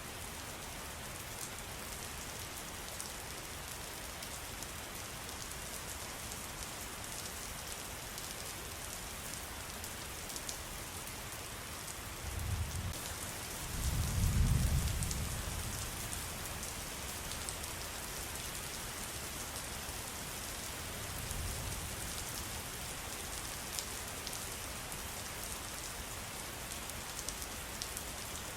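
Steady rain falling, with fine drop ticks throughout. A low rumble swells twice a little before the middle, the second the loudest, and a weaker one comes later.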